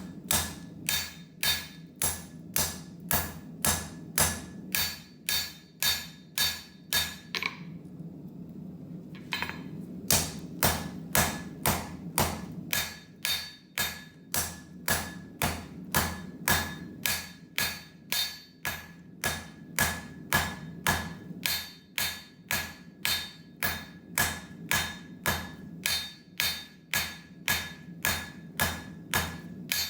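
Hammer blows forging a wootz steel knife tang on an anvil, about two ringing strikes a second in a steady rhythm, with a short pause about eight seconds in. A steady low hum runs underneath.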